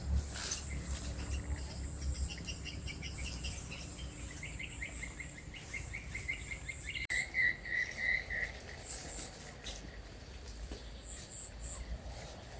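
Rural outdoor ambience with a small animal chirping in fast, evenly repeated trains of high notes, loudest a little past the middle, over a faint steady high whine and low rumble.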